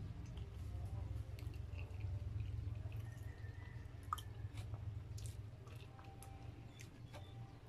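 Faint wet mouth sounds of a person chewing and smacking, with scattered short clicks, and a finger licked near the end. A low steady hum underneath weakens about two-thirds of the way through.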